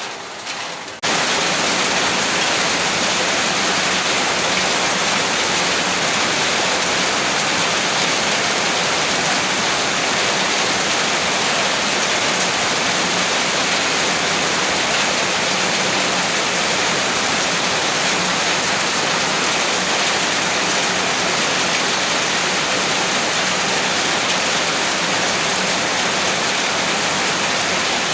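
Heavy rain falling in a dense, steady hiss. About a second in, the sound jumps abruptly louder and fuller, as if cut to a different rain recording, then stays even.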